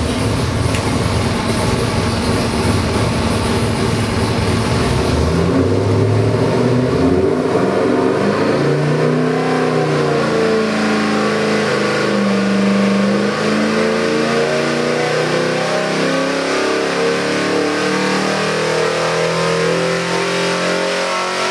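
408-cubic-inch Ford small-block Windsor stroker V8 running on an engine dynamometer. After a few seconds at a steady speed it pulls a sweep under the dyno's load, its pitch rising steadily as the revs climb from about 3,600 to over 5,000 rpm.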